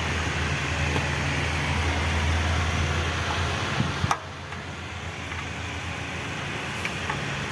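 Steady mechanical background hum with a hiss over it. About four seconds in, a click comes and the hum drops suddenly to a lower level.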